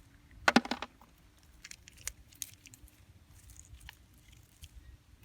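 Shellfish shells clicking and clattering as they are picked and handled: a short burst of clacks about half a second in, then scattered small taps and clicks.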